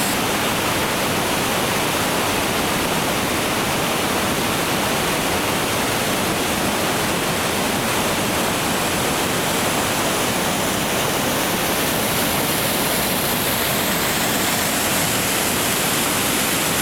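Rushing whitewater of a creek: a steady, unbroken roar of water.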